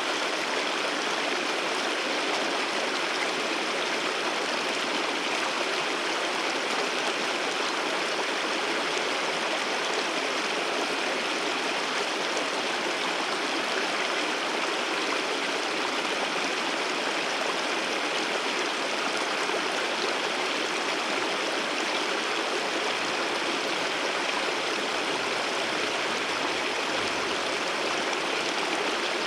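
Waterfall water rushing steadily, an even unbroken hiss of flowing water.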